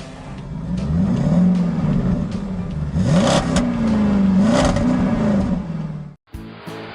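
Cartoon car engine sound effect revving, its pitch rising and falling several times. It cuts off suddenly about six seconds in and upbeat guitar music starts.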